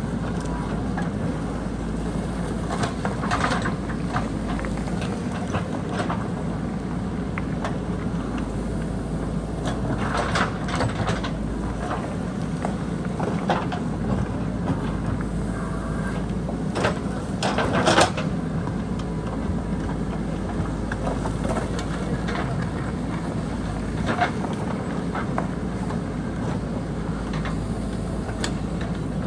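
JCB backhoe loader's diesel engine running steadily under work, with occasional short clanks and scrapes of the bucket against rock and boulders, the loudest a little past the middle.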